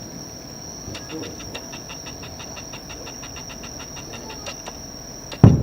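A firework shell bursting with a single loud, low boom near the end, over a steady high-pitched whine and quick regular ticking.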